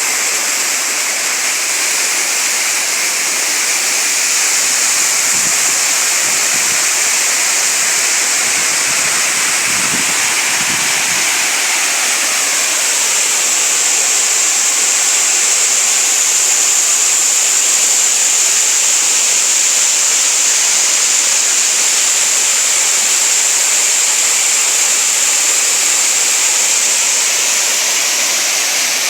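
Waterfall: water pouring down over rock and running on in a stream, a steady, even rushing.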